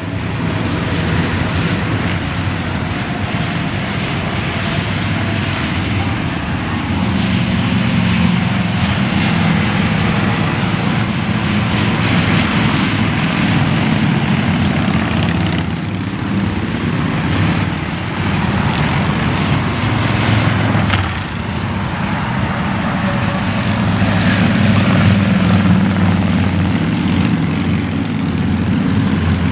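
Many motorcycles riding past on an interstate in a long unbroken stream. Their engines blend into one loud, steady mass of sound that swells a little at times, over tyre and wind noise.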